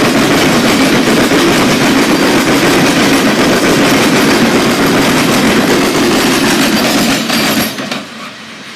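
Loaded coal hopper cars of a freight train rolling past close by, their steel wheels on the rails making a loud, steady noise. Near the end the noise drops off suddenly as the last car goes by, leaving the train fading away.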